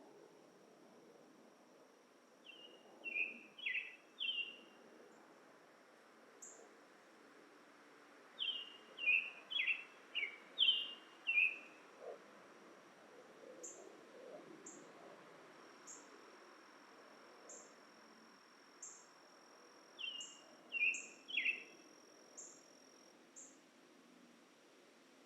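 A songbird sings three short bursts of quick down-slurred notes, over a steady high insect drone and short high insect ticks about once a second.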